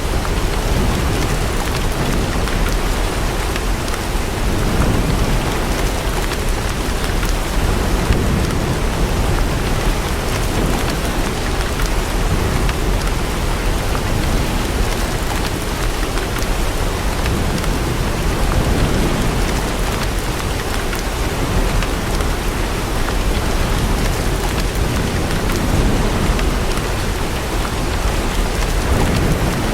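Steady heavy rain falling and pattering on surfaces, with slow low swells that may be distant thunder rumbling.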